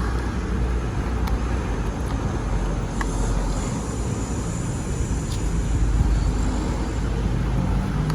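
Nitro engine of a Hobao Hyper VS RC buggy running steadily during break-in, a constant low rumble.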